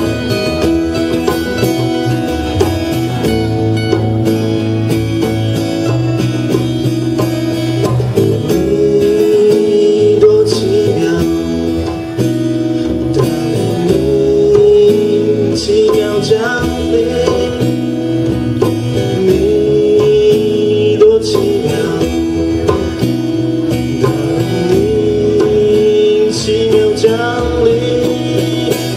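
Live band playing an instrumental passage of a song: a lead melody line that slides between notes, over guitar and a steady beat.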